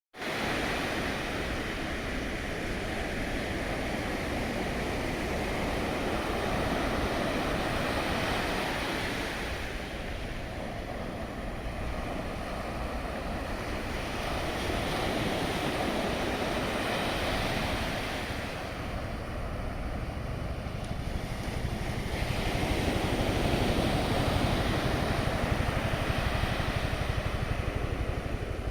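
Wind buffeting the microphone over the wash of sea water, a steady rushing noise that swells and eases every several seconds.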